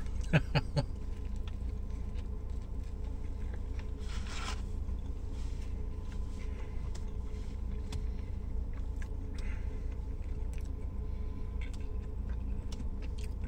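Soft rustling, scraping and small clicks of someone handling and eating a sandwich, with a longer rustle about four seconds in, over a steady low hum.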